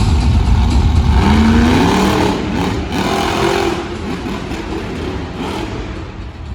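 Monster truck engine running loud with a heavy low rumble, its pitch sweeping up and down as it revs, then easing off after about two to four seconds.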